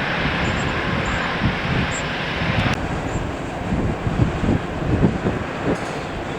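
Jet airliner engine noise, a steady rushing sound that drops away suddenly a little under three seconds in. After that, wind buffets the microphone in low, irregular gusts.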